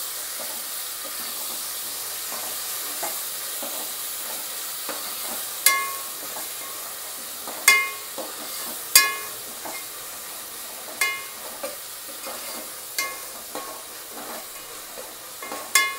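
Ginger-garlic paste, onions and cashews frying in hot oil with a steady sizzle while a metal spoon stirs them in a metal pot. The spoon strikes the pot with about six sharp ringing clinks, the loudest in the middle.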